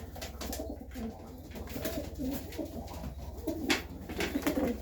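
Serbian Highflyer pigeons cooing in the loft: several low coos overlapping and rising and falling in pitch, with a sharp click about three and a half seconds in.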